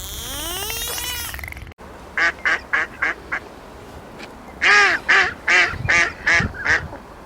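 An animal calling in short, repeated pitched calls: about five quick calls, a short pause, then a louder run of six or seven. Before them, a rising pitched sound cuts off abruptly.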